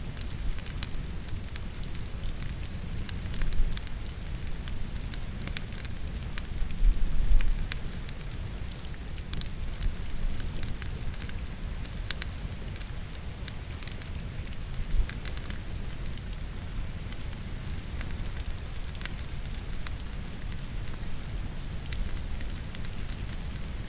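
Firewood burning in a fireplace with frequent sharp crackles and pops over a steady patter of rain, with a low rumble swelling up briefly twice, loudest about seven seconds in.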